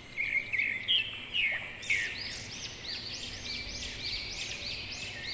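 Bird chirping: a few scattered high chirps, then a steady series of short chirps, about two to three a second, from about two seconds in.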